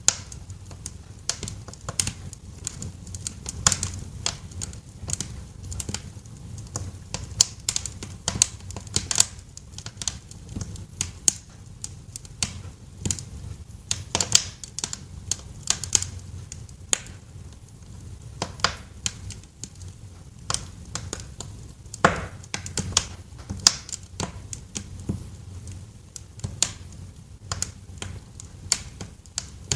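Wood fire crackling in a fireplace: irregular sharp pops and snaps, several a second with a few louder cracks, over a steady low rumble of the flames.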